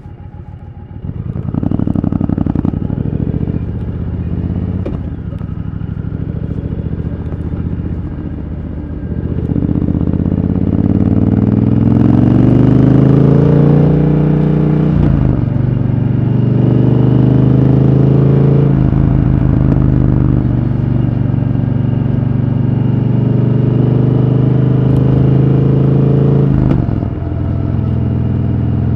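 Triumph Thunderbird Storm's 1700 cc parallel-twin engine accelerating hard through the gears. The pitch climbs, then drops sharply at each upshift, three or four times, before the engine settles into a steady high cruise and eases off near the end.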